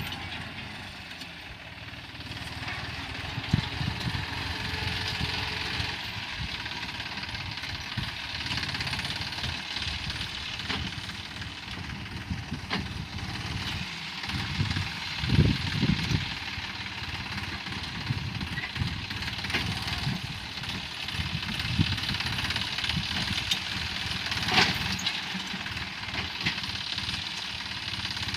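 New Holland 49 hp tractor's 2700 cc diesel engine running steadily while it pulls a six-disc plough, with irregular low thuds and rattles throughout, loudest about halfway through, and a sharp knock near the end.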